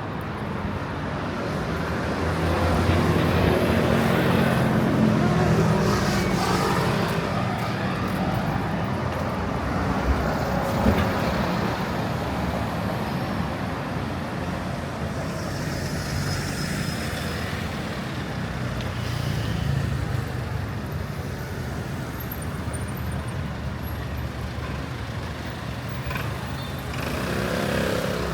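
City street traffic: cars and trucks running and passing steadily, with one engine passing close and louder a few seconds in.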